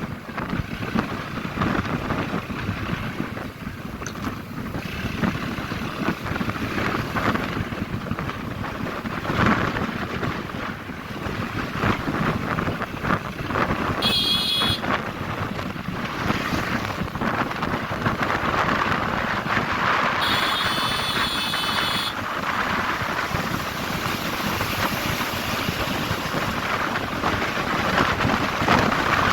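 Wind buffeting the microphone and road noise while riding a motorbike, a steady rushing rumble. Two brief high-pitched tones cut through, one about halfway through and a longer one a few seconds later.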